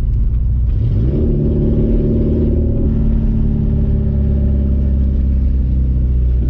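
Porsche 944's 2.7-litre four-cylinder engine running loud through a straight-piped exhaust with no muffler. About a second in, the note rises as it is given gas, then holds steady.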